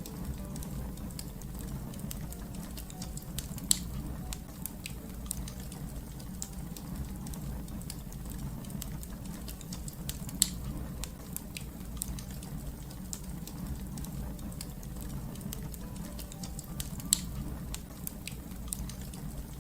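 Fire crackling: a steady low rumble of burning with frequent small crackles and three louder pops, about one every seven seconds.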